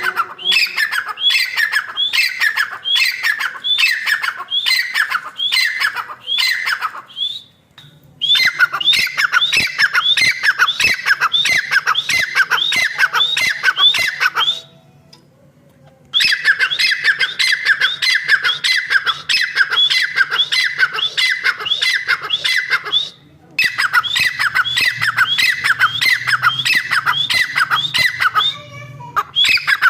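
Female francolin (teetar) calling: a rapid run of sharp, downward-sliding notes, a few each second, in long series broken by three or four short pauses.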